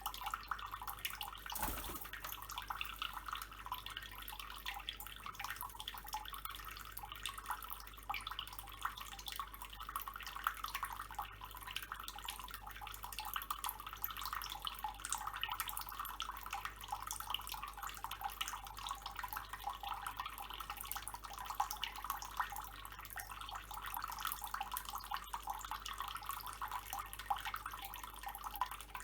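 Water running steadily from a tap, a continuous fine splashing trickle, with one sharp knock about two seconds in.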